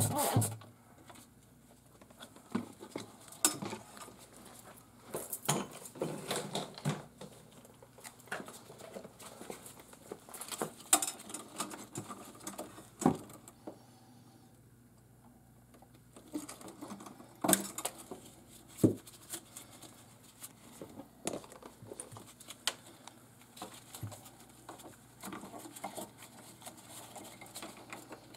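Scattered clicks, taps and light rustling of hands working on refrigerator parts, with a faint steady low hum underneath.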